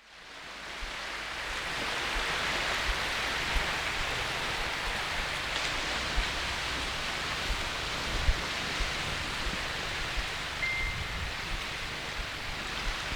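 Steady hiss of strong wind outdoors, fading in at the start, with scattered low buffeting thumps of wind on the microphone. A brief faint high whistle comes about eleven seconds in.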